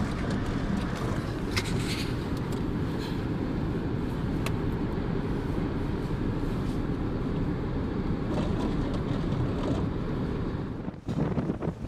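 Steady low rumble of a car driving, engine and road noise, with a few faint clicks. It cuts off near the end.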